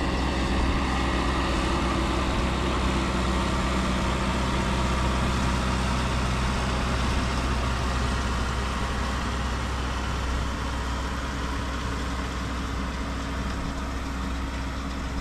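Tractor engine running steadily, easing off slightly in the second half.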